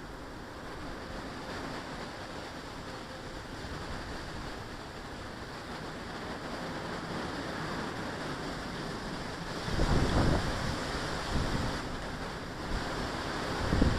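Wind, with a steady rushing noise that turns into loud, uneven gusts buffeting the microphone from about two-thirds of the way in.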